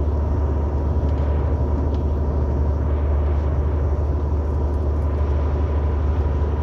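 Steady road and engine noise inside a car's cabin at highway speed: a deep, even rumble with a faint steady tone above it.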